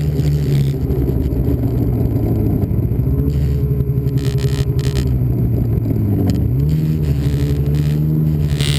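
Snowmobile engine running steadily at speed; about six seconds in the revs drop briefly and then climb back up.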